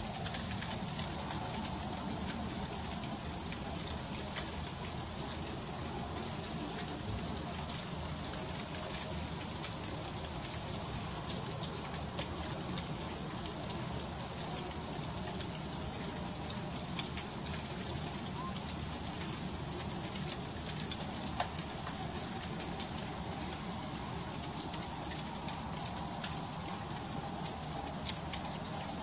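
Freezing rain falling steadily, with many small, irregular ticks and patters of drops and ice striking surfaces.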